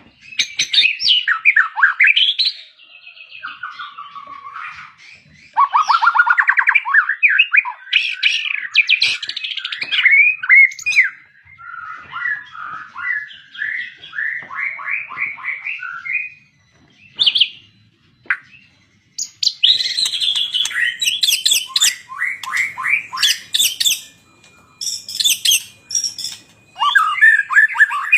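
A murai songbird singing a long, varied song of quick whistles, sweeping notes and trills, broken by short pauses. From about two-thirds of the way in, the song turns to rapid, harsh, scratchy notes before the whistled phrases return near the end.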